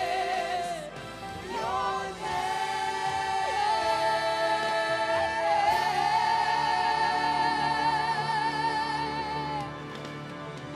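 Worship music: singers holding long, wavering notes over steady instrumental accompaniment, dropping in level near the end.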